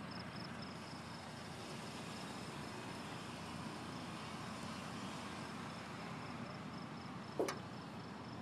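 Crickets chirping steadily, about four high chirps a second, over a steady background hiss, with one brief sharp click about seven seconds in.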